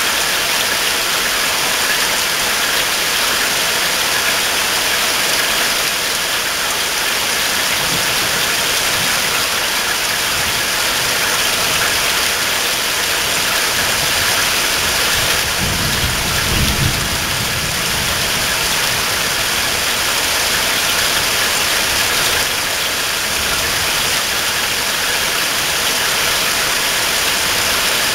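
Rain falling steadily, a loud, even hiss throughout, with a brief low rumble about halfway through.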